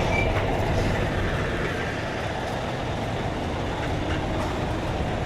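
Heavy truck diesel engines running with a steady low rumble, a little quieter after the first couple of seconds.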